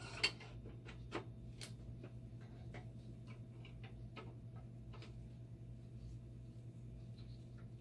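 Scattered light clicks and taps of hands handling circuit boards and plastic parts, a sharp one just after the start and another about a second in, then sparser. A steady low hum runs underneath.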